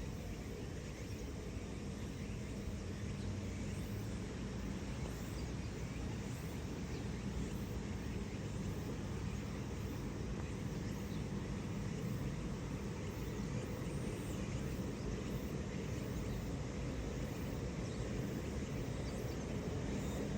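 Steady running noise inside a Haga-Utsunomiya LRT HU300 low-floor tram, a low rumble of wheels on rail with a faint motor hum that comes and goes.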